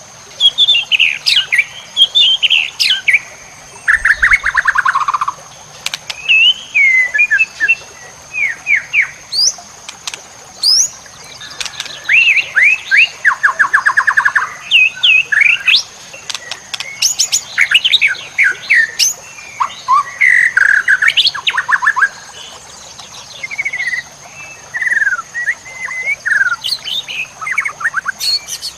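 White-rumped shama (murai batu) singing a long, varied song of loud whistled phrases, quick pitch sweeps and fast trills, broken by brief pauses, with mimicked calls of other birds worked into it.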